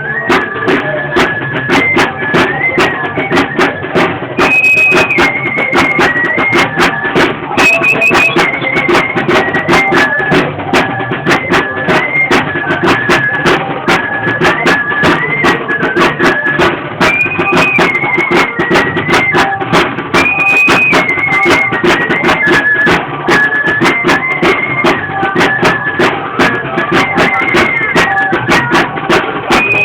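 Traditional torito dance music: a high flute plays a stepped, repeating melody over a steady, fast drum beat.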